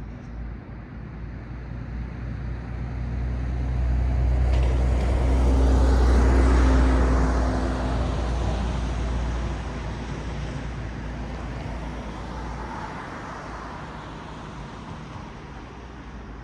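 A car passing close by on a road: tyre and engine noise swells to a peak about six seconds in, then fades away over a low steady traffic rumble.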